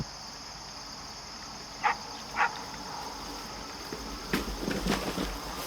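Two short animal calls about two seconds in, half a second apart, over a steady high-pitched insect drone; a few soft knocks follow near the end.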